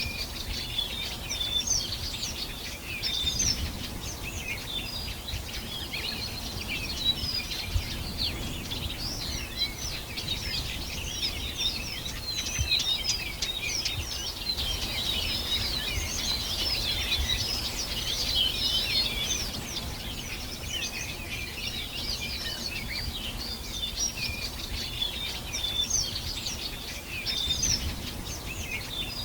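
Many birds singing at once: a dense, continuous chorus of high chirps and trills over a low background rumble.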